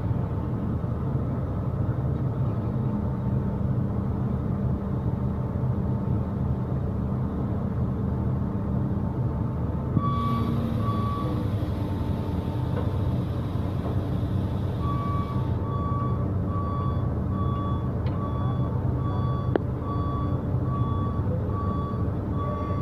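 Heavy machinery's diesel engines running steadily under a machine's warning beeper. The beeper sounds briefly a little less than halfway through, then repeats at an even pace of about one and a half beeps a second from about two thirds of the way in.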